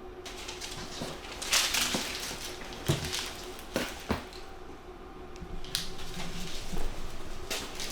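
Clattering knocks and rattles of hard objects being handled, with sharp knocks about one and a half, three and four seconds in, and more rattling near the end.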